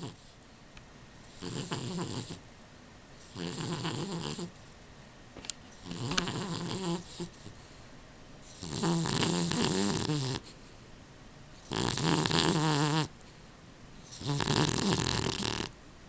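A dog snoring loudly and rhythmically: six rattling snores, each about a second long, coming roughly every two and a half seconds with quieter breathing gaps between.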